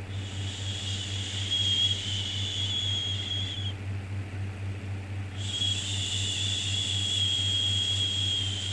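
Shushing 'shhh' sound for soothing a baby, repeated: one long hissing shush of about three and a half seconds, a short pause, then another, over a steady low hum.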